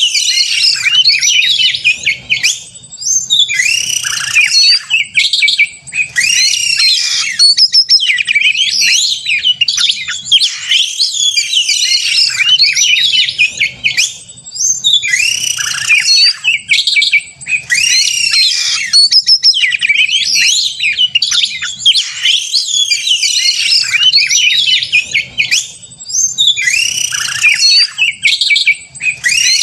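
Male Oriental magpie-robin (kacer) singing loudly and nonstop in its aggressive 'gacor narung' fighting song: rapid, varied phrases of rising and falling whistled notes, broken only by a few short pauses.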